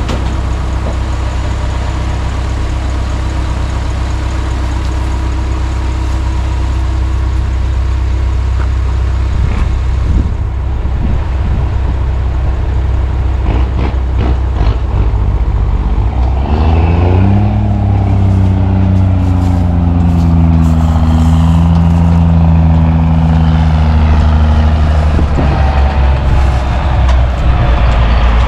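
Heavy truck engine running steadily at a low idle, then revved up about seventeen seconds in and held at higher revs, its pitch wavering slightly.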